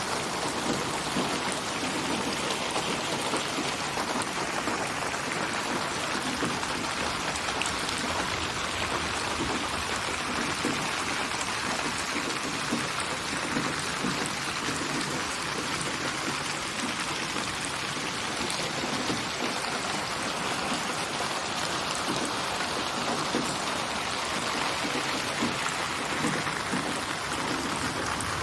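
Steady rain falling on surfaces, a dense even patter of drops. It is a synthetic rain ambience built from many recorded samples and spatialised to move around the listener's head.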